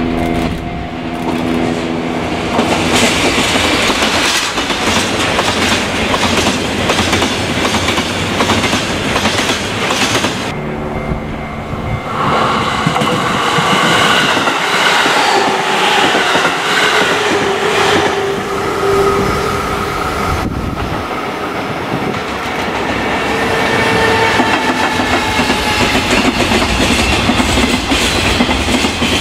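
A DD51 diesel-hydraulic locomotive runs with its engines humming as it hauls tank wagons, and the wheels clatter over the rail joints. A JR Central 313 series electric train then passes close by, its traction motors whining. Last, an EF210 electric locomotive and its container wagons rumble and clatter past.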